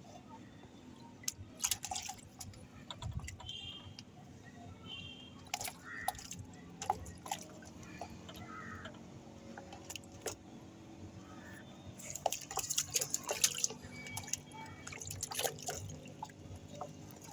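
Irregular small splashes and drips of water, coming thickest about twelve to fourteen seconds in.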